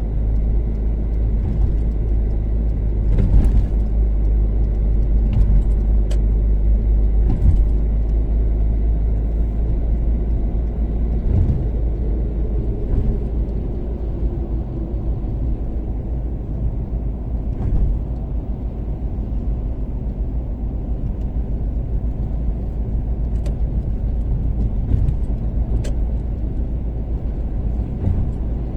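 Toyota Caldina ST246W with its 3S-GTE turbocharged four-cylinder cruising on an expressway: a steady low rumble of engine and road noise. A few brief sharp knocks or ticks come through now and then.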